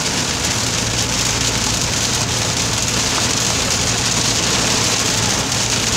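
Hard rain pelting a car's roof and windows, heard from inside the cabin as a dense, steady hiss. A low steady hum sits underneath from about half a second in.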